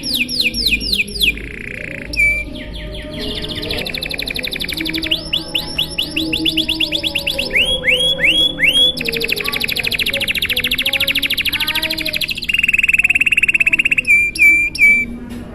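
Domestic canary singing a long, continuous song. It strings together rapid trills and series of quick falling notes, changing phrase every second or two. A buzzier trill comes near the end, followed by a few short notes.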